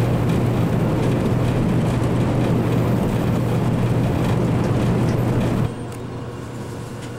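Steady running noise inside a 100 series shinkansen car travelling at speed: a loud rumble with a steady low hum. About two thirds of the way in it drops suddenly to a quieter, steady cabin noise.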